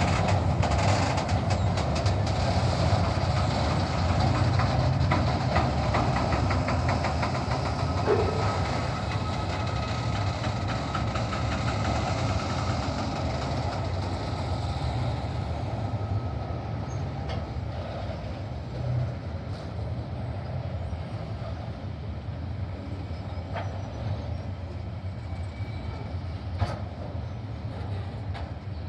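Freight train rolling slowly past, its wagon wheels clicking over the rail joints over a steady low rumble, gradually fading as it moves away.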